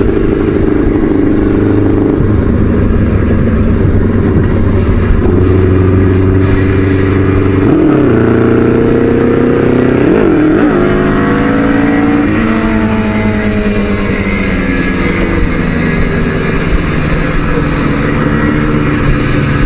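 Motorcycle engine running at road speed with wind rush. The engine pitch climbs for a few seconds from about eight seconds in, then drops sharply about twelve seconds in and settles.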